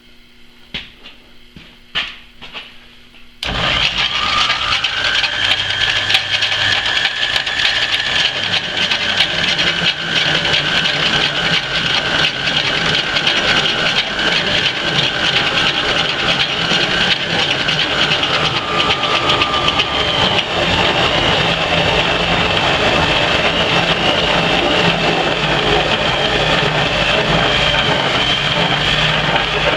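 Rockford metal lathe starting about three and a half seconds in and running steadily, a 1.5-inch drill bit in its spindle cutting into a steel fixture. A steady whine over the running noise changes pitch and fades about two-thirds of the way through.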